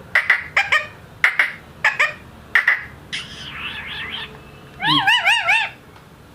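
Indian ringneck parakeet giving a quick series of short, sharp squawks, then a rasping chatter, then a fast-wavering, warbling call near the end.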